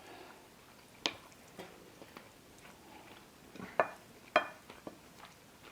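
Eating at a table: a few light clicks of cutlery against a plate, with quiet chewing in between.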